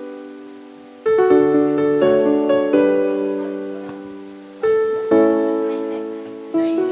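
Background piano music: slow chords struck about every second or two, each ringing and fading away.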